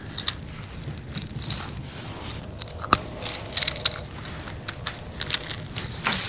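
Irregular clicks, crackles and rustles of hands handling a just-landed fish and its lure, close to the microphone.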